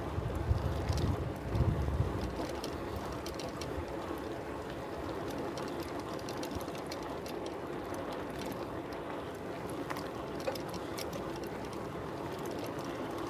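A bicycle rolling along a road: a steady hum of tyres and drivetrain, with scattered light ticks. Wind buffets the microphone in a couple of low rumbles in the first two seconds.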